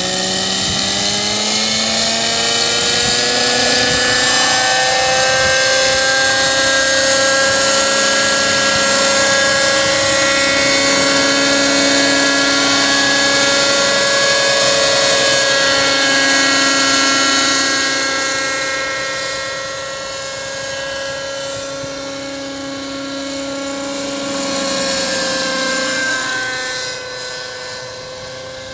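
JR Air Skipper 50 RC helicopter's glow-fuel engine and rotors running at flying speed, a steady high-pitched whine that climbs in pitch over the first few seconds and then holds. It grows quieter about two-thirds of the way through, swells briefly, then drops again near the end.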